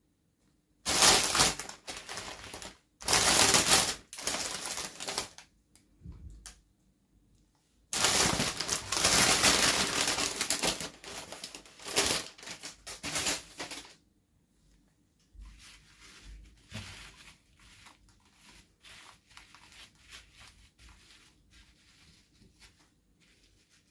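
Doll packaging being torn open and crinkled by hand, in two long loud spells of tearing and crackling, then quieter scattered clicks and rustles in the second half.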